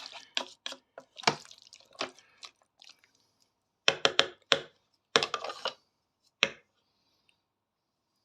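Wooden stirrer working a thick curry in an electric multi-cooker's pot: wet stirring sounds and sharp knocks of the stirrer against the pot, coming in several short clusters.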